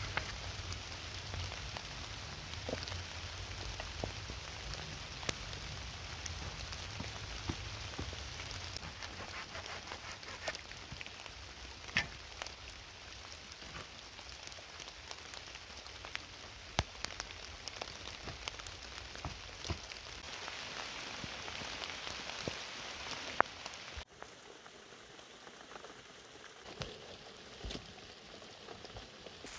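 Heavy rain falling steadily, with scattered sharp ticks of drops landing. About 24 seconds in, the sound cuts abruptly to a quieter rain.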